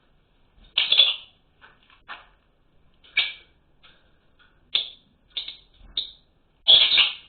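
Small birds giving short, harsh chirps at irregular intervals, with the loudest bursts about a second in and near the end.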